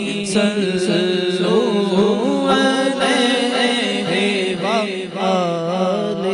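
Devotional naat singing by a solo male voice, held and ornamented notes gliding up and down over a steady low drone.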